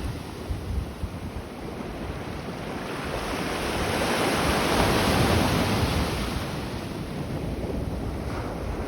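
Baltic Sea waves washing in, swelling to a peak about five seconds in and then easing, with wind rumbling on the microphone.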